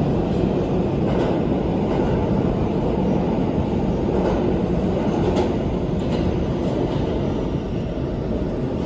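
New York City subway train running steadily, heard from inside the car: a continuous low rumble with a few faint clicks from the wheels.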